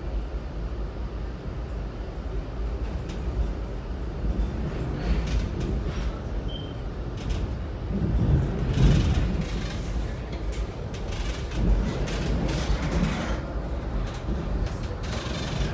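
Steady low rumble of a Metra commuter train in motion, heard from on board, with scattered clicks and creaks. The rumble swells briefly about eight seconds in.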